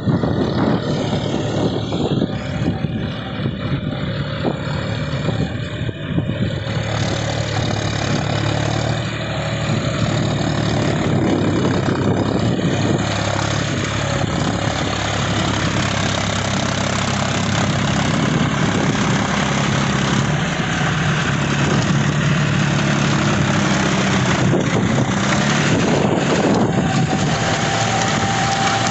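John Deere 5045 4WD tractor's three-cylinder diesel engine running steadily, a little louder in the second half.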